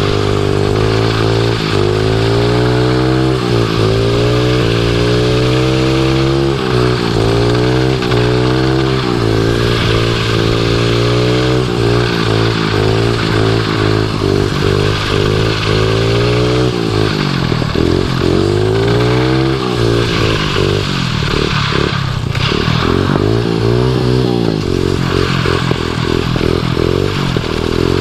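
110cc pit bike engine on a drift trike running hard, the revs rising and falling every second or two as the throttle is worked, then fluttering rapidly up and down in the second half.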